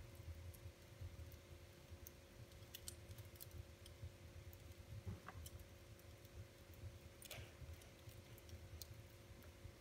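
Wood fire in a fireplace crackling faintly: sparse, irregular sharp pops and ticks over a low rumble.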